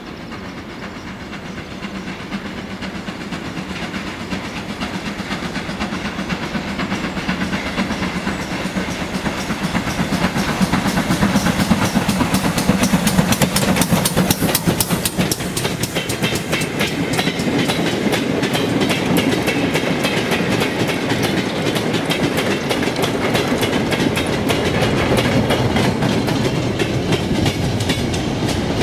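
Steam-hauled train passing close by, building up over the first ten seconds or so, then a long run of rapid wheel clicks over the rail joints as the train rolls past.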